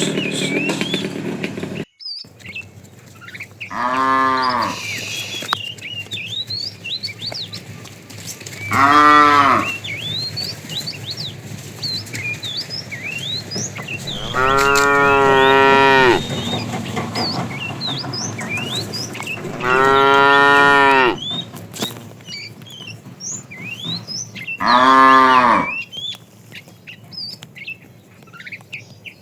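Cattle mooing: five long, low calls spaced about five seconds apart, the middle one the longest. Small birds chirp between the calls.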